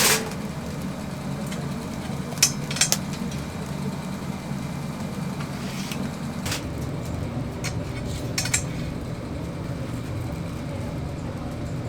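A steady low hum with a handful of sharp metallic clinks, like utensils or pans being handled in a kitchen: two close together about two and a half seconds in, then single clinks and a double clink toward the end.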